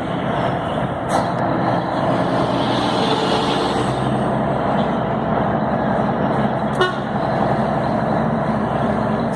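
Scania 112 truck's six-cylinder diesel engine running steadily on the move. There is a short click about a second in and a brief horn toot near the end.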